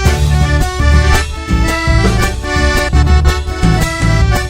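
Live Argentine folk band playing an instrumental passage of a chacarera between sung verses: sustained melody chords over a steady bass and regular drum strokes.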